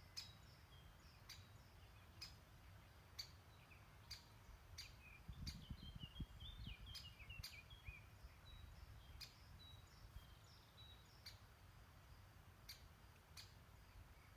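Faint songbird calls: a short twittering phrase about five seconds in and thin high notes here and there, over a low rumble that swells briefly midway. Sharp faint clicks recur about once a second throughout.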